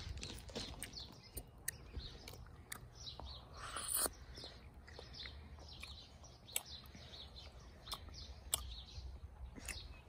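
Small birds chirping now and then, with a few faint clicks in between.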